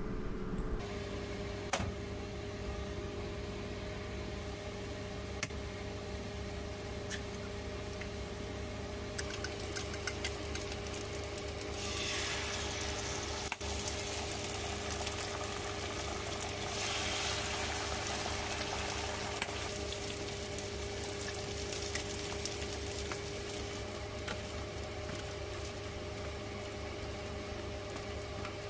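Eggs and meat frying in cast iron skillets on a gas stove: a steady sizzle that grows louder twice in the middle, over a steady low hum, with occasional light clicks of utensils.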